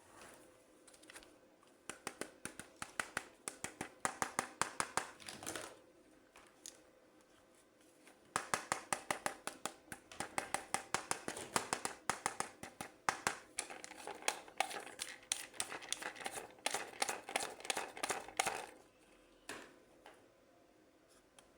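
Toy packaging being handled and opened by hand: runs of quick, crisp clicks and crinkles, about six a second, in two long stretches with a short pause between.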